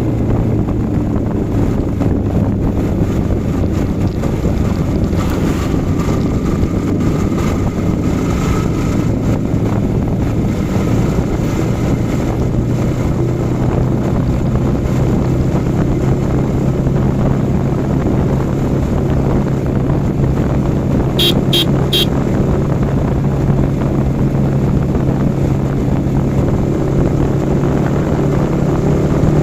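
Yamaha R15 V4's single-cylinder engine running at a steady cruise, with wind buffeting the microphone. Three short high beeps come in quick succession about three-quarters of the way through.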